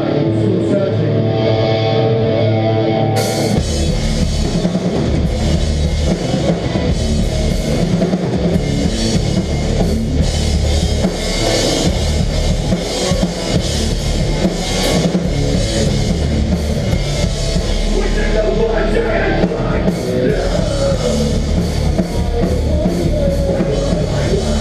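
Live melodic hardcore band playing an instrumental passage: held notes at first, then about three seconds in the drums and guitars come in together and play loud and dense to the end.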